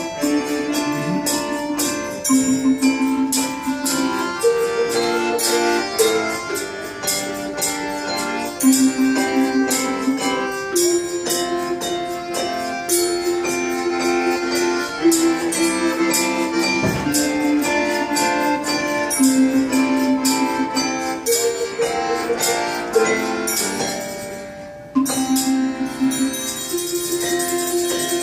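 Instrumental Russian folk tune played by an ensemble: a melody of held notes over steady percussion with jingles. It drops away briefly about 25 seconds in, then picks up again.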